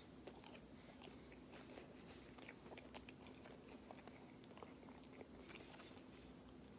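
Faint chewing of a crispy tortilla quesadilla: soft, irregular crunching clicks over a low steady hum.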